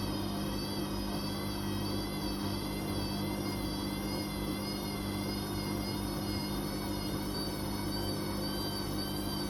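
Whirlpool Indiana 1400 front-loading washing machine running steadily: a constant motor hum with a high whine that wavers slightly in pitch.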